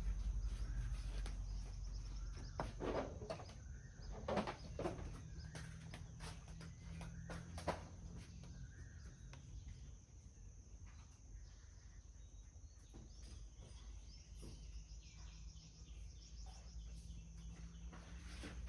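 Quiet workshop ambience with faint birds and insects outside, broken by a few sharp clicks and knocks of hand tools and metal engine parts being handled, mostly in the first half.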